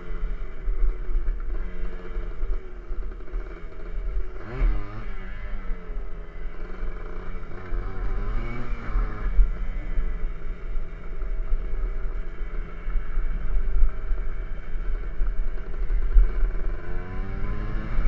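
Small dirt bike engine running under riding, its pitch rising and falling as the throttle is worked, with wind buffeting the microphone.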